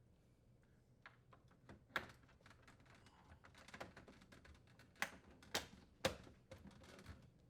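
Faint handling of plastic refrigerator frame and panel parts, with scattered sharp clicks and taps as pieces are fitted and snapped into place. The sharpest clicks come about two seconds in and again between five and six seconds in.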